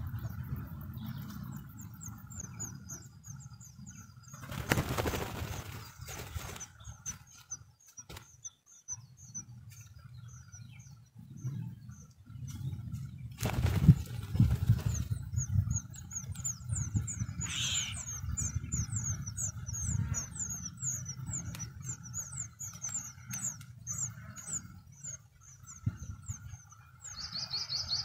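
Blue rock thrushes at a cliff-crevice nest: long runs of thin, high chirps repeated several times a second, with loud whooshes of wing flapping about five and fourteen seconds in, over a low rumble.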